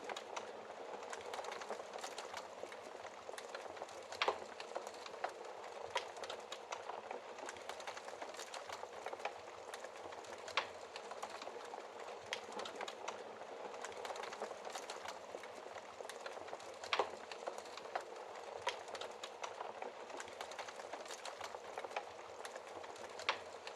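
Wood fire crackling in a fireplace: a steady hiss of dense small crackles with sharper pops every few seconds.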